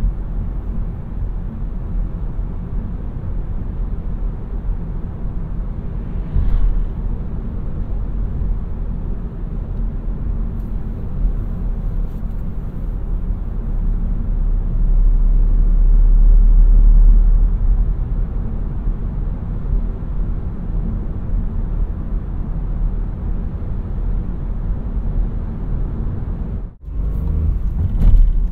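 2017 Seat Arona 1.0 TSI's three-cylinder turbo petrol engine and tyres giving a steady low driving rumble, rising in level for a few seconds midway. The sound cuts out for a moment near the end.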